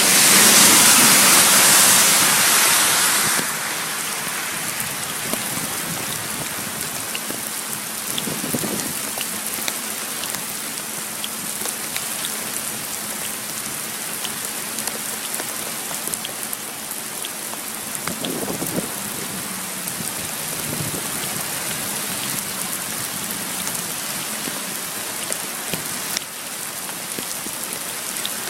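Steady rain falling on a flooded street, an even hiss with scattered drop ticks, louder for about the first three seconds before settling. Two short, low swells come through, one about eight seconds in and another about eighteen seconds in.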